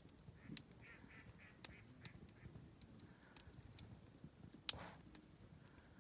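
Wood campfire crackling faintly, with scattered sharp snaps and one louder pop a little before the end that trails into a short hiss. Early on, a short run of about five faint calls sounds in the background.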